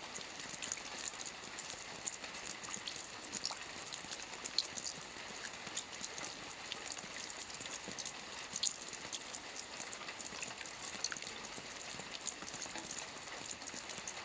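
Steady rain with individual drops ticking and pattering on a hard surface.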